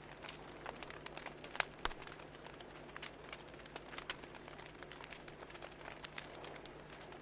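Wood fire crackling: irregular sharp pops and snaps over a soft steady hiss, the loudest pop about one and a half seconds in.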